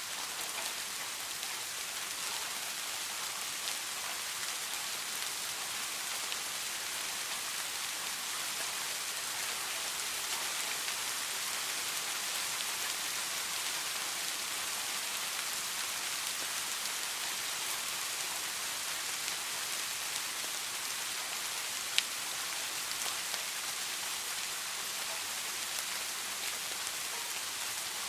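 Soft, steady rain falling, a constant hiss dotted with many small drop ticks. One sharper drop tick stands out near the end.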